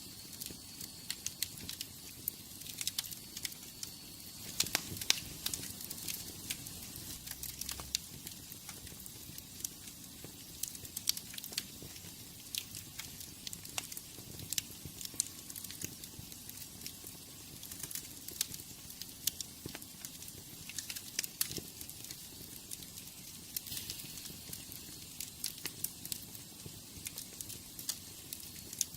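Wood fire burning in a fireplace, crackling with irregular sharp pops over a soft steady hiss of the flames.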